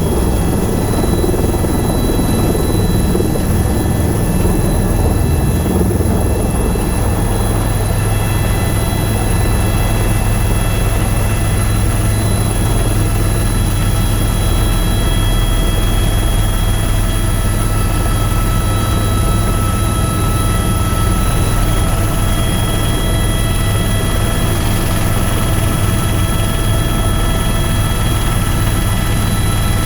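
Tour helicopter in flight: a steady drone of rotor and turbine engine, with a constant high whine over a deep rotor hum.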